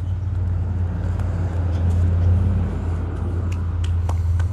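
Low, steady rumble of a motor vehicle's engine, growing louder toward the middle and easing slightly near the end.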